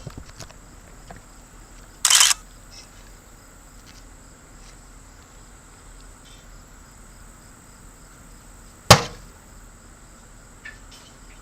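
A raw egg exploding inside a running microwave: one sharp, loud pop about nine seconds in. About two seconds in there is a brief, loud burst of noise.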